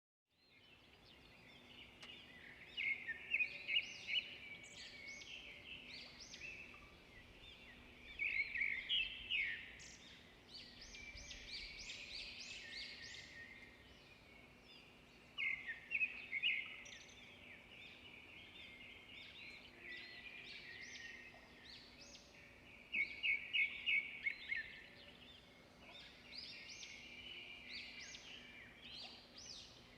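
Songbirds singing and chirping, with a loud burst of rapid repeated notes every several seconds, over a faint steady low hum.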